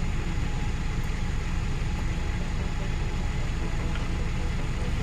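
Heavy truck diesel engine idling steadily, a low, even sound with no change in speed.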